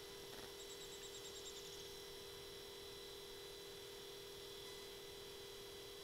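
Faint steady electronic hum made of several fixed tones, with a quick run of about a dozen short, high pips about a second in.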